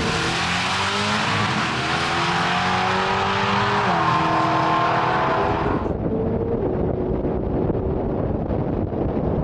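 Race car engine at full throttle, pitch climbing, then stepping down at a gear change about four seconds in. A loud rushing hiss over it cuts off suddenly about six seconds in, and the engine runs on at a lower pitch.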